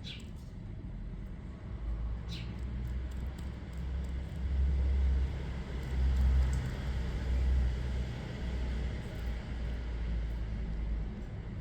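A low rumble that swells and falls back for most of the stretch, with two short high bird chirps, one at the very start and one about two seconds in.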